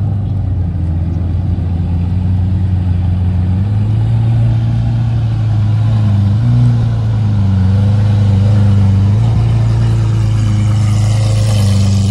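Car engine running close by, loud and held at a fairly steady pitch with small rises and dips.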